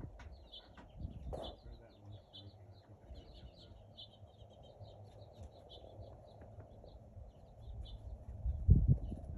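Small birds chirping over and over in quick, short notes at a feeder, with wind buffeting the phone's microphone as a low rumble that gusts strongest near the end.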